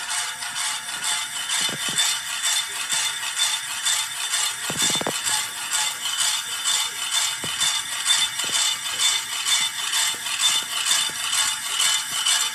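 A wobbly ceiling fan running with a steady rattling, clattering noise that pulses evenly a few times a second with each turn. A brief lower sound comes about five seconds in.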